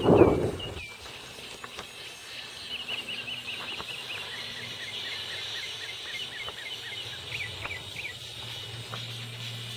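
Small birds calling in the scrub: short down-slurred notes, a quick run of chirps a few seconds in, then more scattered chirps, over a steady high hiss. A brief muffled rumble at the very start is the loudest sound.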